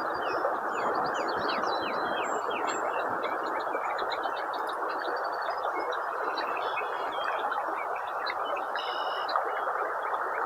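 Small birds chirping repeatedly over a steady rushing of river water.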